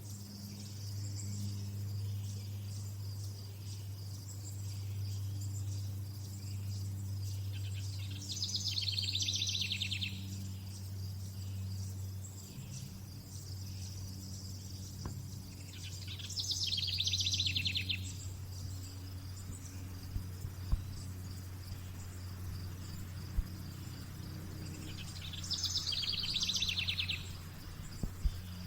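Outdoor nature ambience: a steady high-pitched insect chorus of crickets. A high, finely pulsed trill of about two seconds comes three times, roughly every eight seconds. A low steady hum runs underneath.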